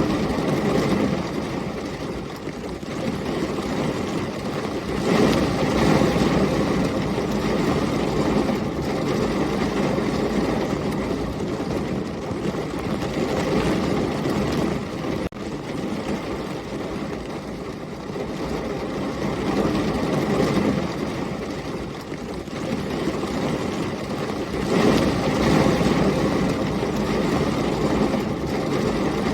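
Heavy rain with storm wind, a dense, steady rushing with a low rumble in it that swells louder twice, about five seconds in and again near the end.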